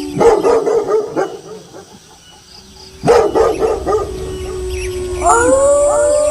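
Dogs barking in two quick bursts of about a second each, over a long, steady wolf howl. A new howl begins about five seconds in, rising in pitch and then holding.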